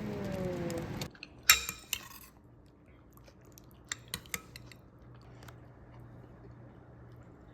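Cutlery and dishes clinking: a loud ringing clink of metal on a bowl about a second and a half in, then a few light clicks near four seconds. Before that a hissing noise stops suddenly about a second in.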